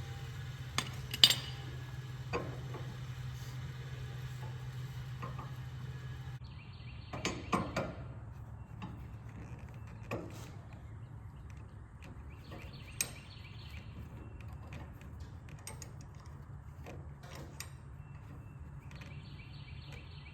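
Scattered clinks and knocks of metal parts being handled, the loudest about a second in, around seven seconds in and near thirteen seconds, over a steady low hum.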